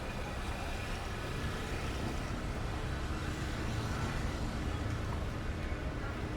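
Steady low engine rumble from motor traffic, heard within the general outdoor background noise.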